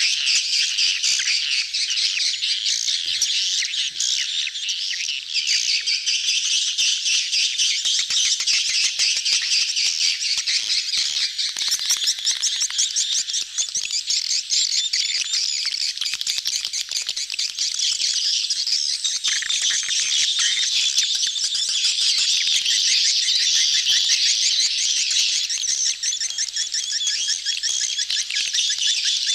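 Swiftlet lure recording: a dense crowd of swiftlets chattering and twittering without a break, many birds calling over one another in rapid, high chirps and trills, the crowded colony and courtship calls used to draw swiftlets into a nesting house.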